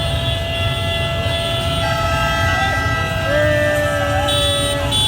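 Street traffic rumbling, with several vehicle horns sounding in long held tones that overlap; another horn starts about three seconds in, and short high-pitched toots come near the end.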